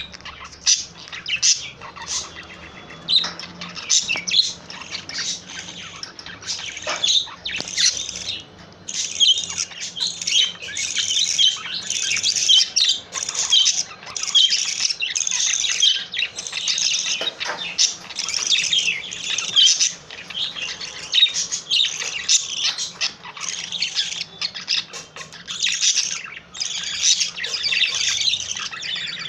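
Male budgerigar singing: a long, continuous warbling chatter of rapid, varied chirps, whistles and squawky notes.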